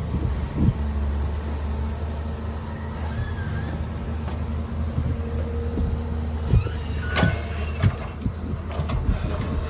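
A heavy machine's diesel engine runs with a steady low hum, with scattered knocks and clanks over it, the sharpest about seven seconds in.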